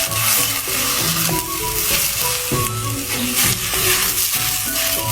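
Shredded thunder god bamboo shoots sizzling as they are stir-fried in a hot pan, with the scrape and clatter of stirring. Soft background music plays with held notes.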